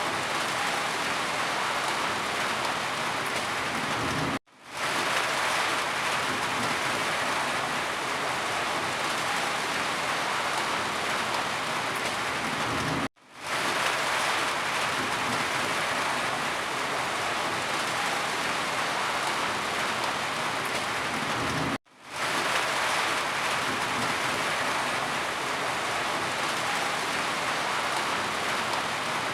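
Rain falling steadily, an even hiss. Three times, about every nine seconds, it cuts out for a moment and fades back in.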